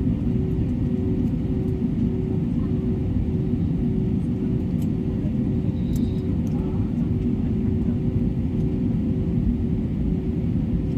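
Airbus A320neo cabin during taxi: a steady low rumble of the jet engines and cabin air, with a constant hum held on two pitches.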